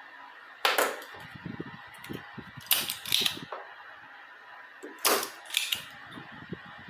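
Desoldering a capacitor from an audio amplifier's circuit board: five short sharp snaps, mostly in pairs, with small knocks and scrapes of tools on the board between them.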